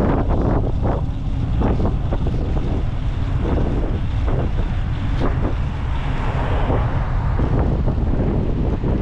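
Wind buffeting the microphone while riding: a heavy, steady low rumble with short, gusty rushes of noise.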